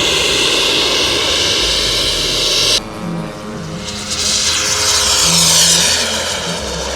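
Giant-scale RC model airplane engines running loud. A rushing roar starts suddenly and cuts off abruptly about three seconds in. A second engine sound follows and swells then eases off.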